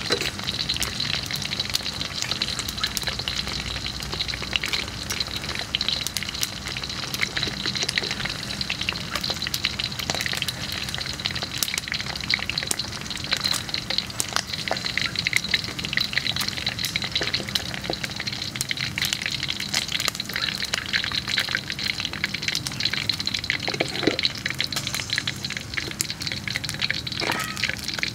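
Whole balloon frogs deep-frying in hot oil in a steel wok: a steady sizzle thick with rapid pops and crackles. Metal tongs scrape and tap against the wok as the frogs are turned and lifted out.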